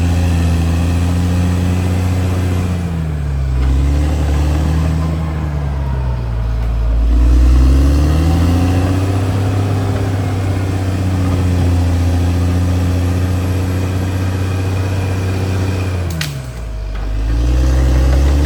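CAT D6R XL bulldozer's diesel engine running; its speed dips and comes back up three times.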